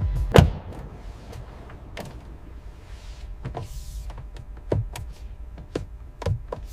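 A car door shutting with a heavy thunk about half a second in, followed by scattered light clicks and knocks over a low steady rumble.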